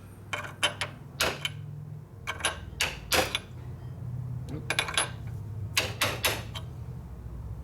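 Light, irregular hammer taps on a small metal fuel strainer housing being tapped back into round, over a steady low hum.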